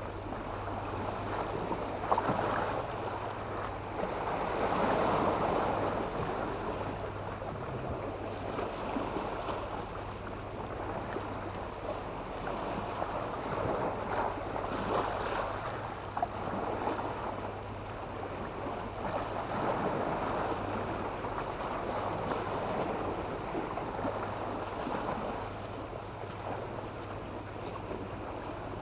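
Mediterranean sea waves breaking and washing up a beach of sand and black stones, the surf swelling and falling back every few seconds.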